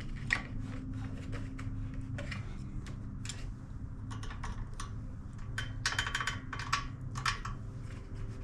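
Light, irregular clicks and taps of hand tools and metal parts as a small engine is turned over by hand to find top dead center, with a quick run of clicks about six seconds in. A steady low hum runs underneath.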